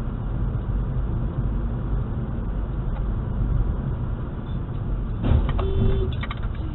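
Steady low rumble of a car driving, engine and road noise together. About five seconds in, a quick cluster of clicks and a short steady tone.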